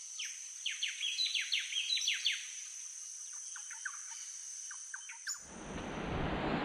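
Forest birds chirping in quick downward-sliding notes over a steady high-pitched drone. About five seconds in, wind noise on the microphone comes in.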